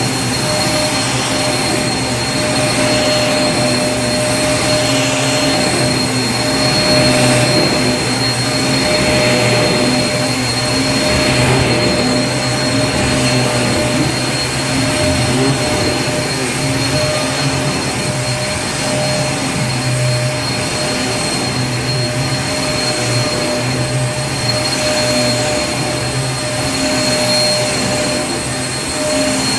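Vacuum cleaner running continuously: a steady rush of air with an even high whine and a low hum, the loudness swelling and easing slightly.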